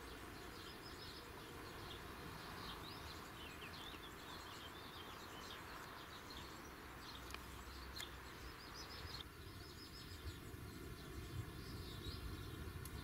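Small birds chirping and singing faintly over a low, steady outdoor rumble; the background noise changes about nine seconds in.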